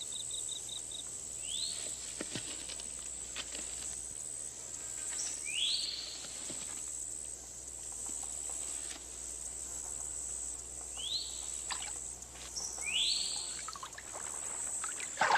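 Swamp ambience: a steady high-pitched insect drone, with a few short rising animal calls and scattered faint clicks. A brief louder sound comes right at the end.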